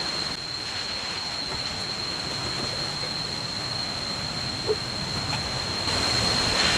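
Water hissing and spraying from a burst hose: a steady rush with a thin, steady high-pitched tone over it, growing louder near the end.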